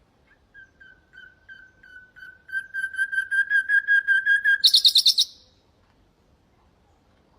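Common nightingale singing one crescendo phrase: a run of pure whistled notes on one pitch, slow at first, then quicker and louder, closing with a brief harsh rattle pitched higher.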